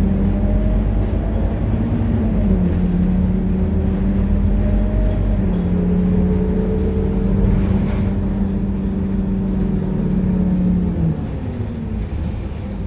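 Scania K230UB city bus's nine-litre five-cylinder diesel engine running steadily under way, with a steady whine whose pitch steps a couple of times and then drops away near the end.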